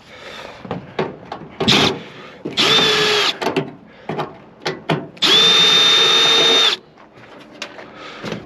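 Power drill-driver running in two steady bursts, a short one about two and a half seconds in and a longer one of about a second and a half near the middle, driving out a screw from a microwave oven's sheet-metal casing. Light clicks and knocks of handling come between.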